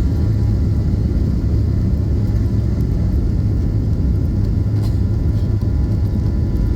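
Boeing 737-800's CFM56-7B jet engines at takeoff thrust: a loud, steady deep rumble with a faint high whine above it.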